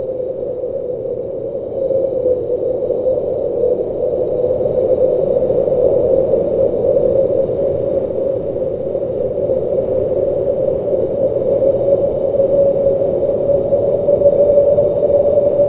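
Blizzard wind blowing steadily as an even rushing noise, centred in a fairly low narrow band, growing a little louder about two seconds in.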